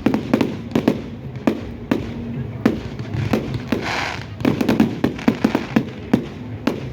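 Fireworks display: rapid, irregular bangs and cracks from aerial shells, several a second, with a short hiss about four seconds in.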